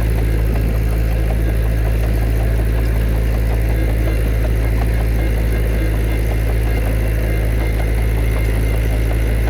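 Heavy diesel engine of earthmoving machinery running steadily with a deep, even drone and no revving.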